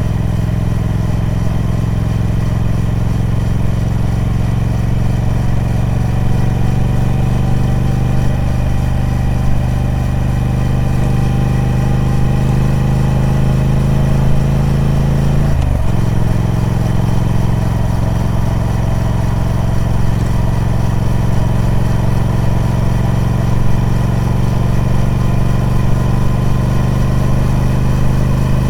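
Triumph Speed Twin 1200's 1200 cc parallel-twin engine through its stock exhaust, running under load with the engine speed slowly climbing. About sixteen seconds in the pitch drops suddenly, as with a gear change, then climbs slowly again.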